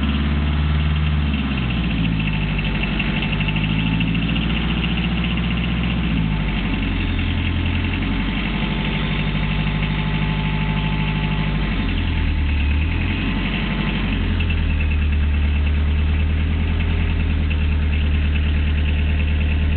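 Citroën BX turbo diesel engine idling, its speed wavering up and down unevenly; it is running after standing unused for a long time.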